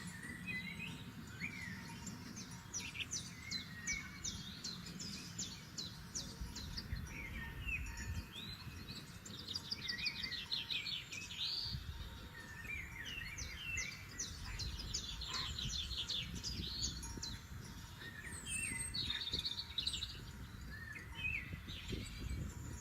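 Several forest songbirds singing at once: fast trills of rapidly repeated high notes alternate with short chirps and sliding calls, over a steady low rumble.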